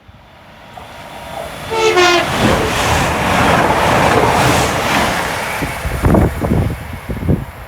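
A train sounds a short two-note horn about two seconds in and then passes at speed: a loud rush of wheel and air noise lasting several seconds, with a run of wheel thumps near the end.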